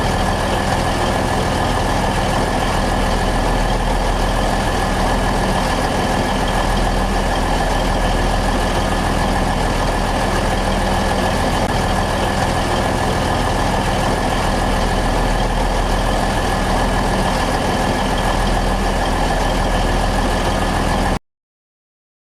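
Twin diesel engines of a diesel-hydraulic locomotive running steadily, with a steady high whine over the engine note; the sound stops abruptly near the end.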